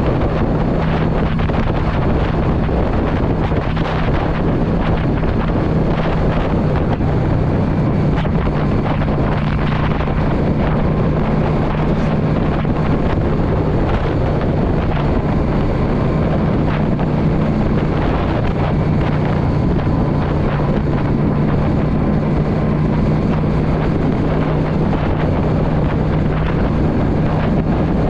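2016 Yamaha V Star 650's air-cooled V-twin engine running at a steady cruising speed, with heavy wind rushing over the microphone.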